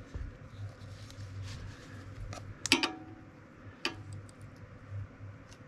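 Scattered light clicks and taps of hands working on a small generator engine's carburetor, with one sharper click that rings briefly about halfway through, over a faint steady low hum.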